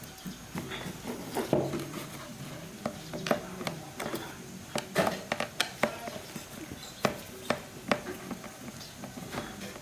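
Irregular clinks, taps and knocks of small hard objects being handled and set down, typical of parts and hand tools during a bench repair.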